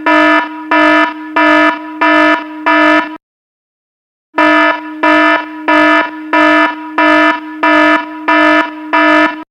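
Electronic alarm sound effect: a pitched alarm tone that swells loud about every three-quarters of a second. It comes in runs of pulses, and the run breaks off for about a second some three seconds in.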